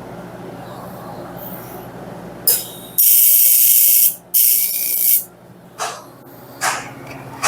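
TIG welding arc on an aluminium cylinder head, struck in bursts of loud hiss: two lasting about a second each, then three short ones. A steady low hum runs before the first burst.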